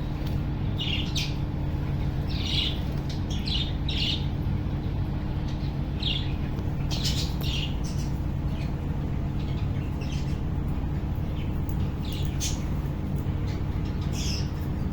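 Budgerigars in a colony giving short, scattered chirps and squawks, a dozen or so, over a steady low hum.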